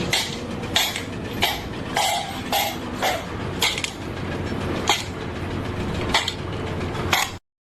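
A series of about ten sharp clanks or knocks, coming irregularly about every half second to a second over a steady background noise, cutting off abruptly near the end.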